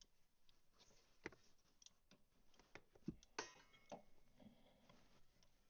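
Near silence broken by a few faint, short clicks and knocks of hardware being handled while snowmobile motor mounts are refitted.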